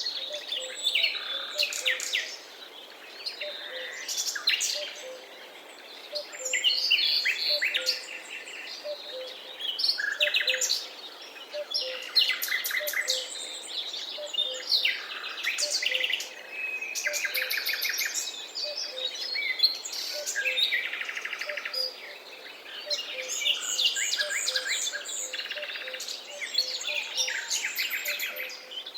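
Forest dawn-chorus-style birdsong: several birds singing at once, with rapid trills, repeated chirps and whistled phrases over a soft background hiss.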